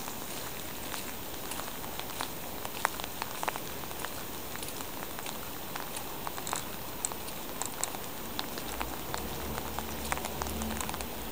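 Steady rain falling, with scattered sharp ticks of drops close by. About eight seconds in a low rumble joins it.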